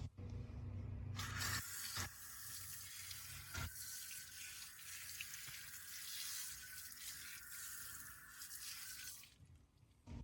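Kitchen tap running water into a sink: it turns on about a second in, runs steadily with a few small knocks, and shuts off near the end.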